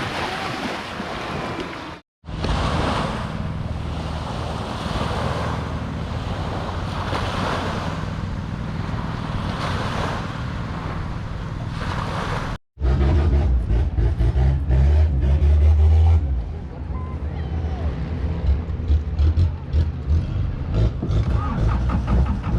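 Beach ambience of waves and wind, broken by two brief cuts; about halfway through, a Thai long-tail boat's engine takes over, running loudly with a deep steady drone and scattered knocks until the end.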